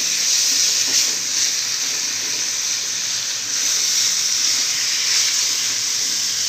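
Chicken pieces frying in oil in a wok, stirred with a spatula: a steady sizzle.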